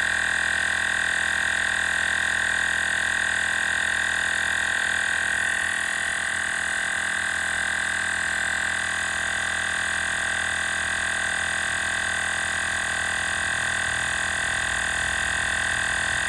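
Small portable tire inflator's compressor running steadily under load as it pumps a truck tire past 60 psi, a constant high-pitched whine over a hum.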